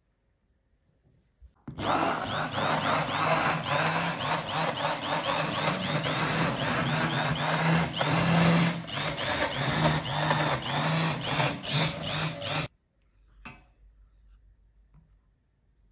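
A small electric motor runs at speed with a steady hum for about eleven seconds, then cuts off suddenly. It is the kind of sound a kitchen appliance such as a blender makes.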